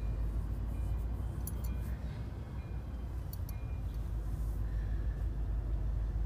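Diesel locomotive running, a steady low rumble.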